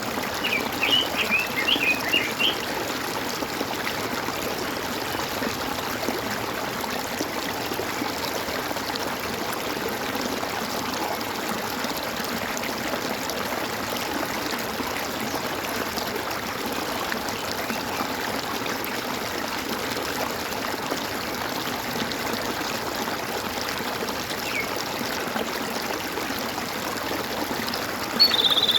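Small stream trickling and gurgling steadily, with a bird chirping a quick run of high notes about a second in and a short high call near the end.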